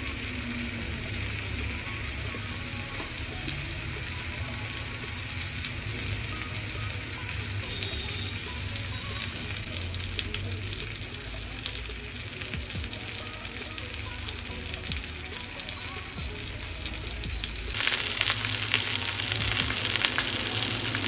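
Marinated chicken legs frying in butter and oil in a frying pan: a steady crackling sizzle that gets louder and brighter near the end.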